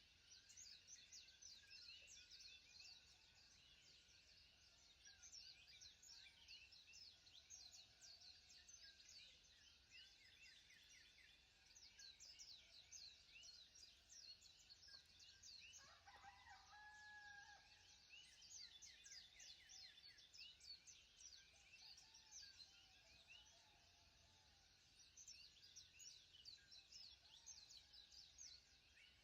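Faint birds chirping: a dense, continuous run of quick high chirps, with a lower, longer call from another bird about sixteen seconds in.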